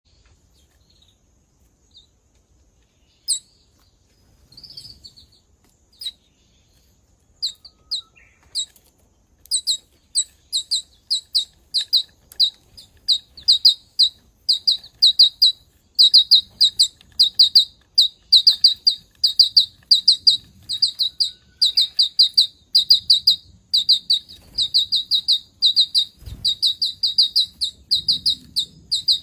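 Small birds chirping high and short, at first only a few scattered chirps, then from about ten seconds in a fast, steady run of chirps several a second: begging calls as the birds feed each other.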